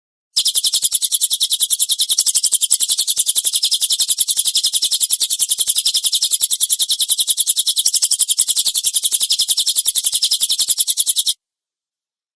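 Cililin bird's rough rapid-fire "tembakan" call, high-pitched chirps repeating about ten times a second in one unbroken run, played as a training recording for songbirds. It starts just after the beginning and cuts off abruptly near the end.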